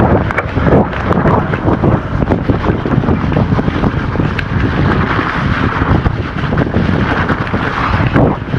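Wind rushing over the microphone of a camera on a moving electric mountain bike, with frequent rattles and knocks from the bike on rough trail.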